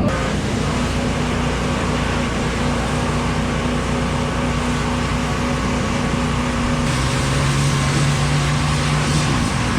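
Dirt bike engine running steadily, its note changing about seven seconds in.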